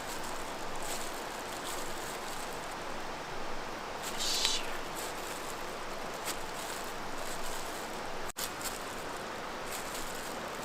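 Steady rushing of a mountain stream, with a short high-pitched sound about four seconds in.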